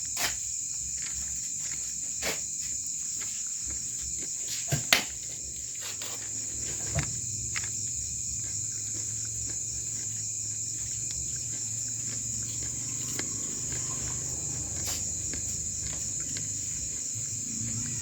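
Steady high chorus of crickets, broken by sharp pops and cracks every few seconds from a dry-wood bonfire burning, the loudest about five seconds in.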